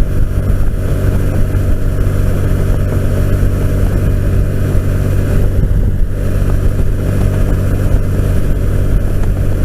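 Can-Am Spyder RT three-wheeler cruising at road speed: a steady engine drone mixed with wind noise, picked up close by a helmet boom microphone.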